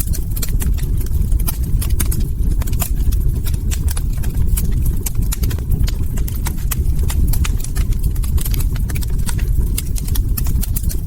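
Log fire crackling, with frequent sharp pops and snaps over a steady low rumble of burning wood.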